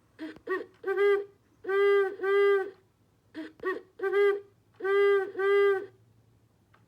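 A recorded owl hooting call played through a bird clock's speaker: a series of hoots in repeating groups, quick short notes followed by longer drawn-out ones. It stops about a second before the end.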